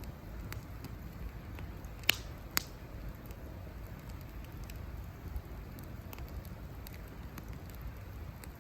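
Wood campfire burning, with scattered small crackles over a steady low rumble and two sharp pops about two seconds in, half a second apart.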